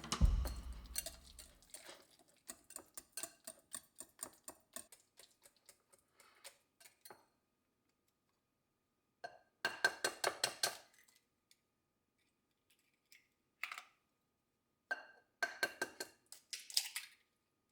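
Kitchen utensils clicking and clinking against dishes: a run of light taps in the first few seconds, then short bursts of quick clinks after a pause.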